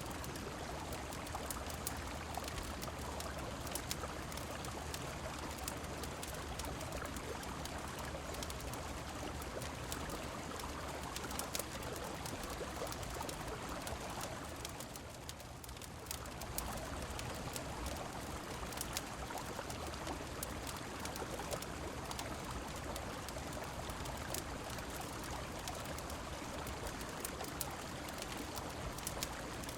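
Layered ambience of a river flowing and rain falling, a steady rush of water with scattered sharp crackles from a fireplace. The sound briefly thins and dips in level about halfway through, then returns.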